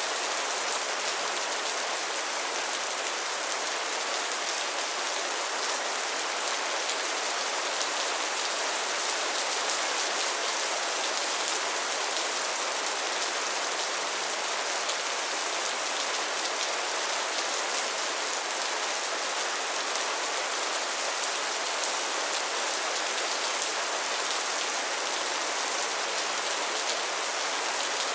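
Steady rain falling, an even hiss of many drops with faint individual drop ticks and no change in strength.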